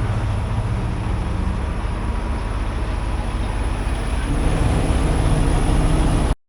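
Semi truck's diesel engine running as the truck gets under way, growing louder about two-thirds of the way through, then cut off abruptly near the end.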